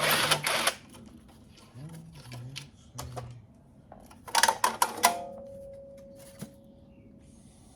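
Socket ratchet clicking in rapid bursts as bolts on the engine's exhaust side are undone. About five seconds in comes a metallic clatter, and a clear metal ring fades out over a couple of seconds.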